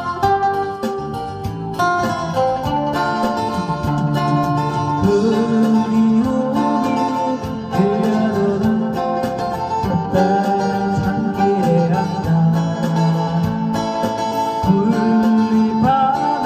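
Guitar played as a solo melody, one plucked note after another over lower notes.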